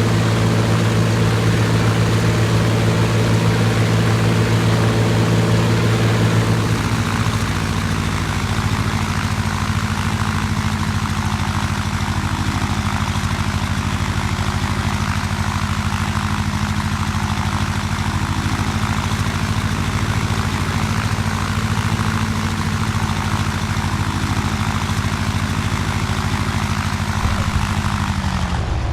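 An engine running steadily, settling to a lower, quieter speed about seven seconds in, then winding down in pitch near the end.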